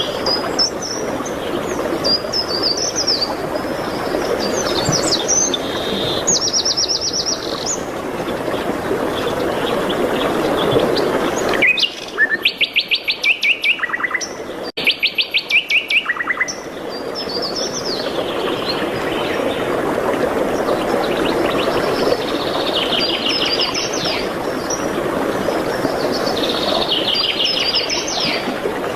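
Several songbirds chirping and trilling over a steady rushing background. About twelve seconds in, the background falls away and a loud, rapid trill sounds twice, each lasting about two seconds.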